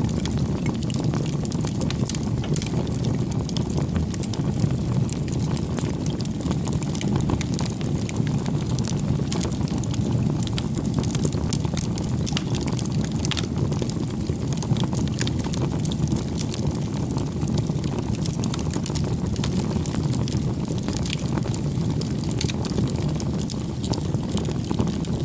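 Wood campfire burning: a steady low hiss of flames with frequent small, sharp crackles and pops.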